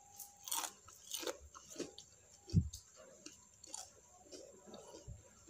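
Someone chewing crispy fried potato sticks (kentang mustofa): a string of irregular, crackly crunches, with one dull thump about two and a half seconds in.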